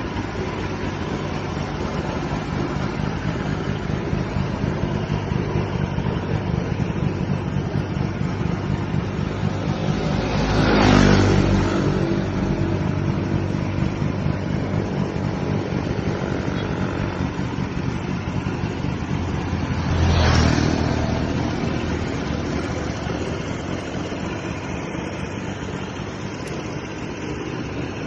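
Suzuki ST20 engine running steadily, with two brief louder swells about eleven and twenty seconds in.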